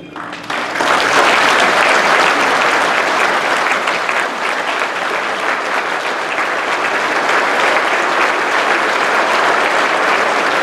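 An audience applauding at the close of a speech: the clapping swells up within the first second and then holds at a steady, full level.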